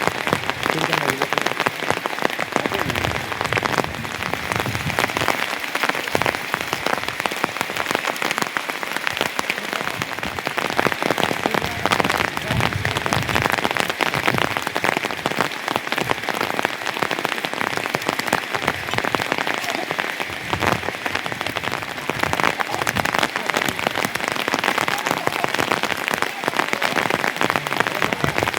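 Steady rain falling on a surface, a dense, continuous patter of drops.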